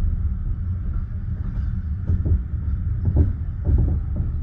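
Passenger train carriage running on the rails, a steady low rumble with the wheels starting to knock irregularly over rail joints about halfway through.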